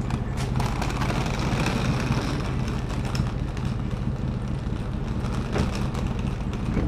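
A vehicle engine running steadily, with scattered knocks and rattles over it.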